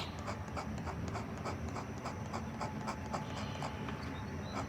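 Fine-tip ink pen scratching on paper in quick short strokes, about three to four a second, as pine needles are drawn off a stem.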